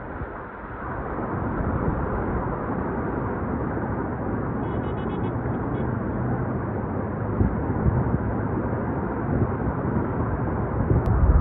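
Steady rushing storm noise with a low rumble underneath.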